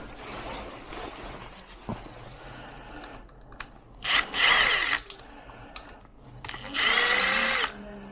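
Handheld power drill running in two short bursts of about a second each, its motor whine shifting in pitch as it speeds up and slows.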